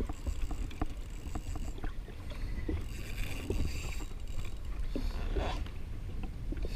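Low steady rumble of wind and water around a drifting jet ski, with scattered light clicks and knocks and stretches of high hiss.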